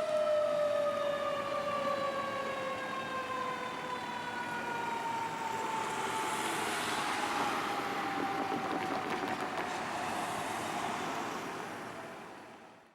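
Fire truck siren on a Pierce Dash CF quint, one long tone falling slowly and steadily in pitch as it winds down, with engine and road noise growing in the middle; the sound fades out near the end.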